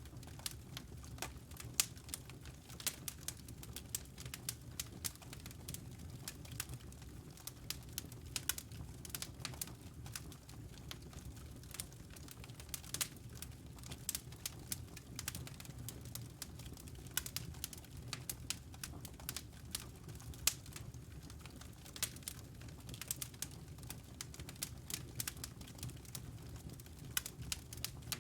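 Wood fire crackling: a dense run of irregular, sharp pops and snaps over a steady low rumble.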